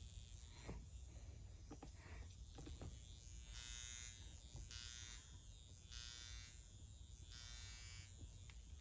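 High-frequency facial wand with a comb electrode buzzing faintly as it is drawn through the hair over the scalp. The buzz swells and fades every second or so, with a few faint clicks in the first few seconds.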